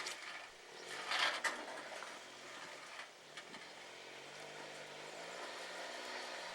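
Suzuki Jimny JB23's small three-cylinder turbo engine running at low revs while crawling over rocks, its note wavering slowly. There is a short scraping burst about a second in.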